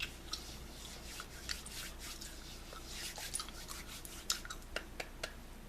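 Hands rubbing hand sanitizer in close to the microphone: soft rubbing noise with many small, irregular clicks.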